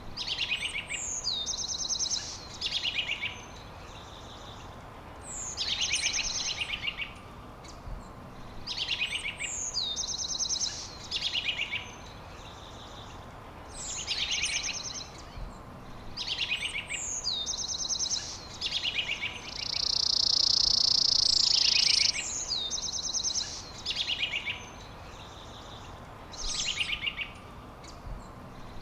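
A songbird repeats the same short song every two to three seconds: a high whistle that falls in pitch, then a rapid trill. About two-thirds of the way through, a loud steady hissing buzz runs for about two seconds.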